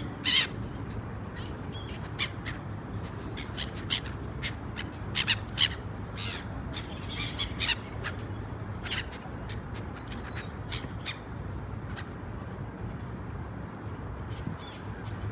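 Gulls calling: many short, sharp calls in quick succession, thickest in the first half and thinning out later, over a steady low hum.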